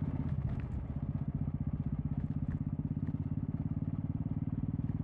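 Royal Enfield Classic 350 single-cylinder engine running at a steady cruise through a Red Rooster aftermarket exhaust, a fast, even thumping pulse from the exhaust with a brief dip in loudness just under a second in.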